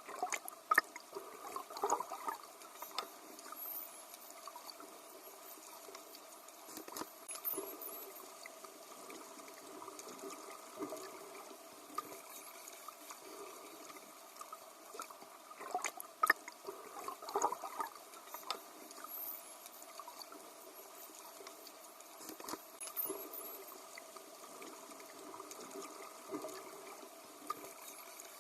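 Water splashing and sloshing around swimming dolphins, with scattered sharp clicks and a few faint high chirps. The whole sequence repeats after about fifteen seconds.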